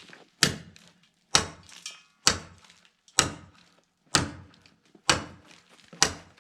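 Steady hammer blows on steel, about one a second, seven strikes each with a short ring, knocking frozen dirt out of a John Deere D6 dozer blade.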